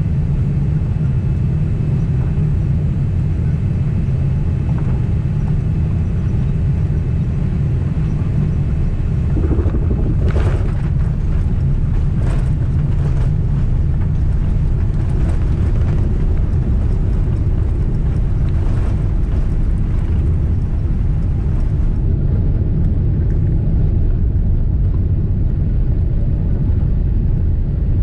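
Steady low cabin rumble inside a Boeing 767 airliner, with a few brief rattling noises about ten to nineteen seconds in.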